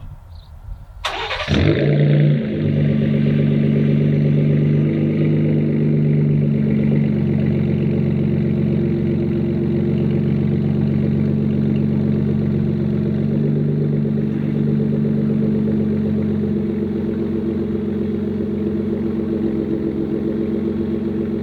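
Ford Raptor's 3.5-litre twin-turbo V6 is started: it cranks briefly about a second in, catches with a short flare, then settles into a steady idle heard through the exhaust.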